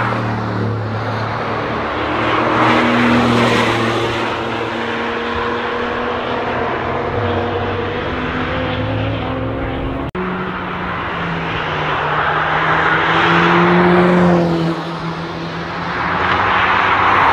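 Silver Porsche 911's flat-six engine pulling through a corner and fading into the distance, its pitch rising and falling with throttle. After a sudden cut about ten seconds in, another car's engine is heard coming closer, louder near the end.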